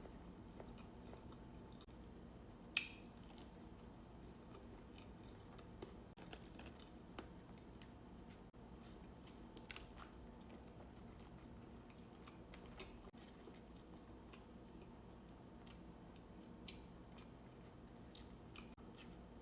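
Faint close-up chewing and biting of food, with many small scattered mouth clicks and one sharper click about three seconds in.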